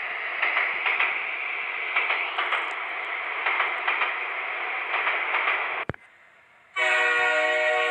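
Cartoon train sound effect: a steady rattling clatter of train running for about six seconds, then, after a brief pause, a steady train horn blast near the end.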